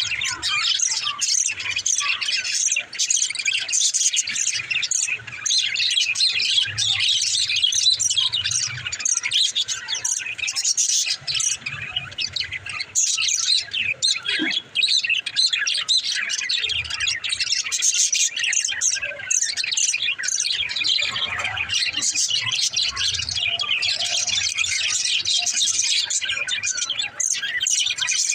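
Pet budgerigars chattering and warbling without a break, a dense run of quick high chirps and trills.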